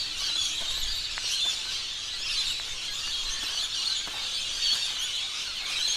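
Steady, dense chorus of high chirping calls from wildlife, with no single call standing out.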